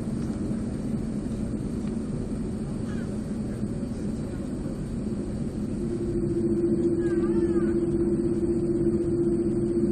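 Airliner jet engines heard from inside the passenger cabin as a steady rumble. About six seconds in, the sound grows louder and a steady droning note joins it.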